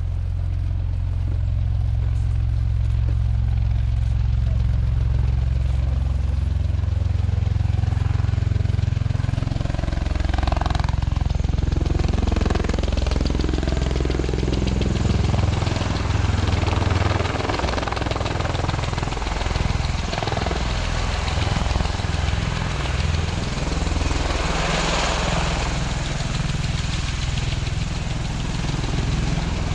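Bell-Boeing CV-22B Osprey tilt-rotor flying, its proprotors and twin turboshaft engines giving a loud, deep drone. The drone is steady for about the first ten seconds, then turns choppy and pulsing, with a rush of noise swelling twice as the aircraft moves.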